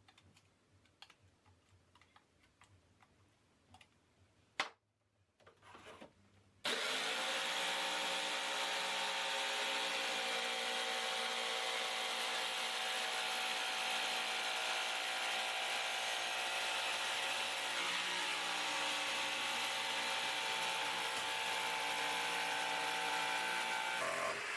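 Jigsaw cutting an acrylic sheet: after a few faint handling clicks, the motor starts about seven seconds in and runs at a steady pitch with the blade rasping through the plastic, then stops shortly before the end.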